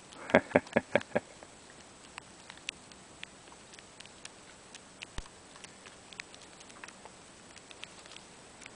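Small wild birds pecking at feed in a hand-held bag: a quick run of five or six sharp taps about a second in, then scattered light ticks.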